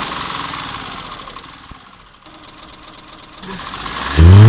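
Car engine running with a regular knocking beat, fading down and back up; near the end a loud sound rises in pitch.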